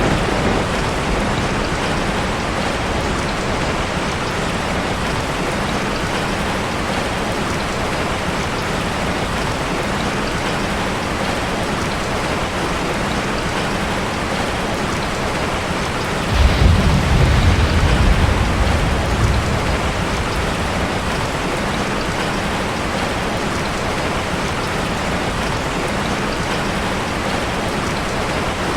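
Heavy steady rain with one loud clap of thunder a little past halfway, a sudden low rumble that fades over about three seconds.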